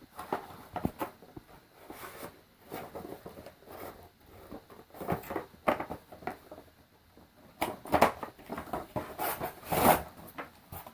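Toy box and its packaging being handled: irregular rustling, scraping and light knocks, with louder handling noise about eight and ten seconds in.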